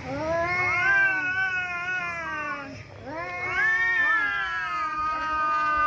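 Tomcats caterwauling in a standoff over a female: two long, drawn-out yowls that rise and then sag in pitch. The second starts about three seconds in and is held long.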